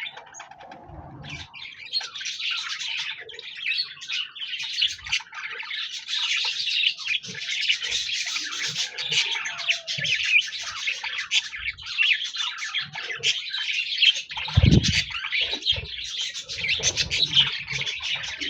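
A group of budgerigars chattering and warbling in dense, continuous chirps, thinner in the first two seconds. A single low thump stands out about fourteen and a half seconds in.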